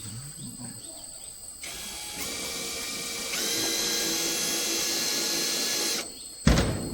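An electric power tool's motor whining like a drill: it starts about a second and a half in, picks up speed in two steps, runs steadily, then cuts off near the end. A loud thump follows just after.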